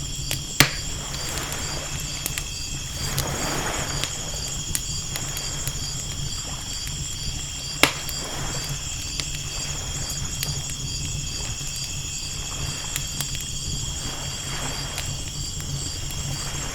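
Layered night ambience: crickets chirping steadily, ocean waves washing in and fading every few seconds, and a crackling campfire with two sharp pops, about half a second and about eight seconds in.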